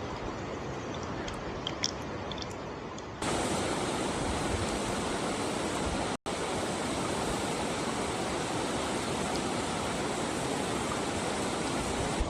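Steady rain noise, an even hiss. About three seconds in it suddenly jumps louder and brighter, and about halfway it cuts out for a split second.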